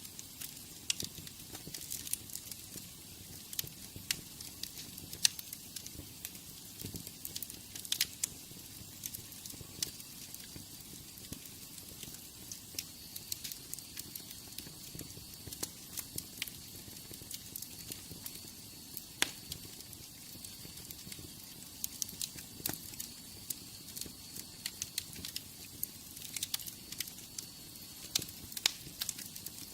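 Wood fire in a fireplace crackling: irregular pops and snaps over a steady soft hiss, with a faint high whistle-like tone through the middle stretch.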